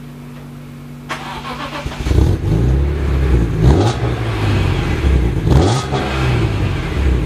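BMW E46 M3's straight-six being started: a second or so of cranking, then the engine catches and runs loudly. It is revved twice, about two seconds apart, the pitch rising and falling each time.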